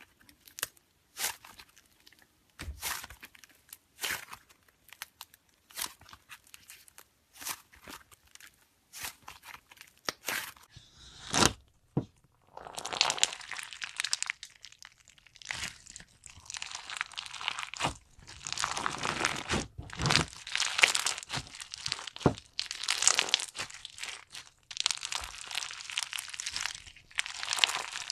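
Slime being pressed and squeezed by hand: first a string of separate sharp pops and clicks, then from about halfway on longer bursts of crunchy crackling with short pauses between them.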